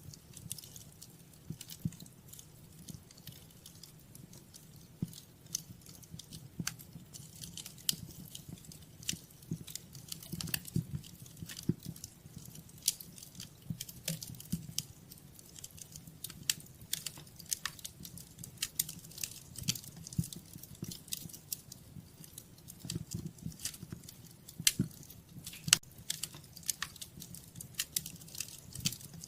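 Wood fire crackling in a fireplace: irregular snaps and pops over a low steady rumble of flames, with one sharper pop near the end.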